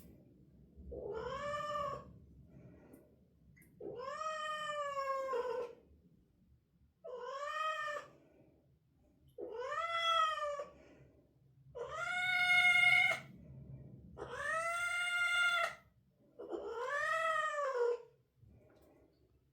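Domestic cat yowling in seven long, drawn-out calls every two to three seconds, each rising and then falling in pitch. It is straining to pass stool on the toilet, and the yowling is a sign of constipation.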